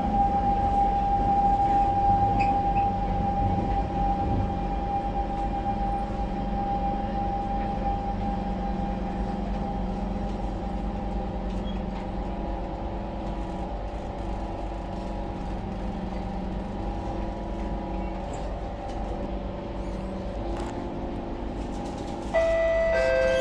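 SMRT C651 train's motor car at a station: a steady electric hum and whine that slowly fades. Near the end a sudden louder chime of two falling tones sounds.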